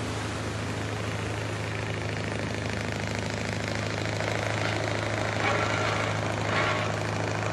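An engine running steadily with a low hum, under an even rushing noise.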